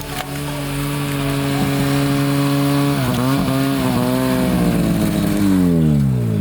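Snowmobile engine running at high, steady revs, wavering briefly about three seconds in, then winding down in pitch near the end.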